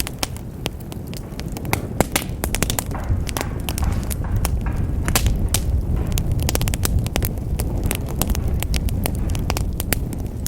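Wood fire burning in a fireplace: a steady low rumble of the flames with frequent sharp crackles and pops throughout.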